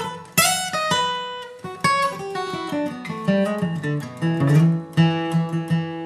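Acoustic guitar playing a bluegrass single-note lead: a run of separately picked notes that settles into a few notes left ringing near the end.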